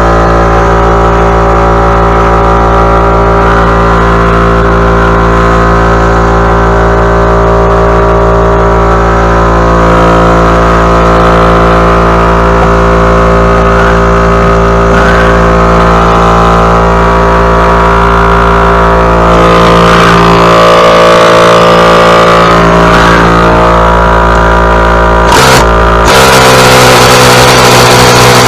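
Small gasoline engine running steadily at constant speed, close and loud, with an abrupt change in its sound near the end.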